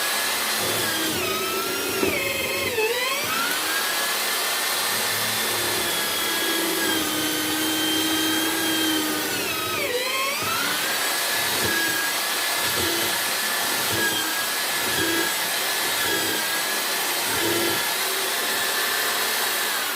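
Electric motor of a homemade wood mortiser running fast with a high whine, its pitch dropping sharply twice, about 3 and 10 seconds in, as it bogs down cutting into the wood, then climbing back to full speed.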